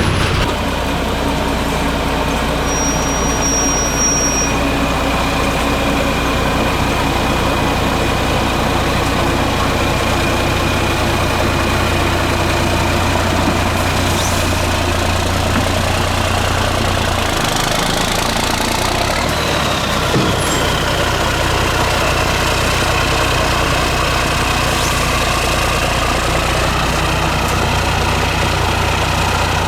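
Diesel engine of a 6x6 MAN trial truck running steadily at low revs. Over a few seconds near the middle its pitch rises and falls once.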